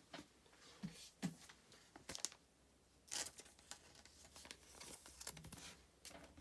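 Faint rustling of a plastic card sleeve and trading cards being handled, with soft clicks: a card being slid into a penny sleeve.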